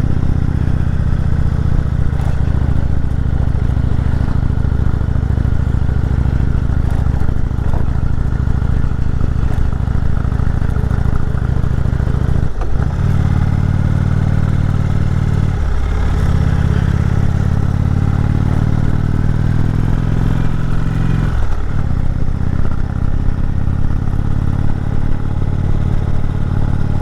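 Indian motorcycle's V-twin engine pulling steadily up a climbing mountain road, its note dipping briefly three times in the second half as the throttle eases off and comes back.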